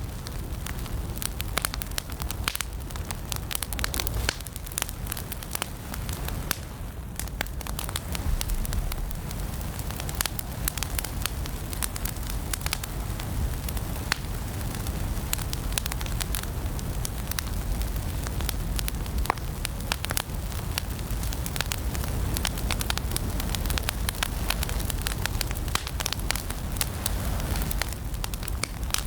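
Wood fire burning in a fireplace: a dense run of sharp pops and crackles over a steady low rumble of the flames.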